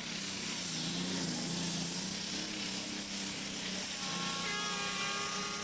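Engine of a pulling vehicle running steadily, with a set of steady whining tones joining about four seconds in.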